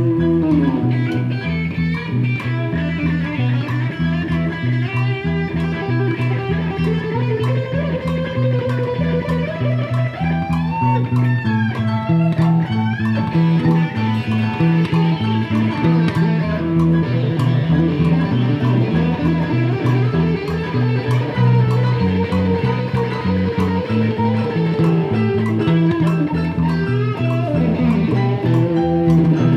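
Live blues band playing an instrumental break: electric guitar lead with bending notes over a walking bass line and a steady drum beat.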